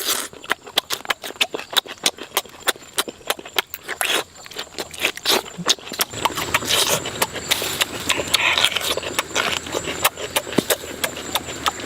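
Irregular run of sharp clicks and snaps, several a second, over a steady hiss.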